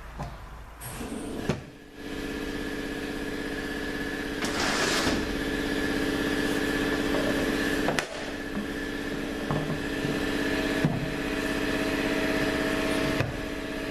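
A motor running with a steady hum that starts about two seconds in, with a few sharp clicks and knocks over it and a short hiss about five seconds in.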